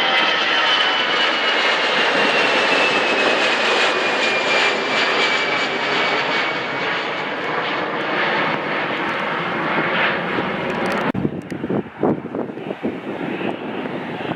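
Jet airliner's engines running loud, a high whine over the roar slowly falling in pitch as the aircraft passes. The sound cuts off suddenly about eleven seconds in, leaving quieter, uneven noise.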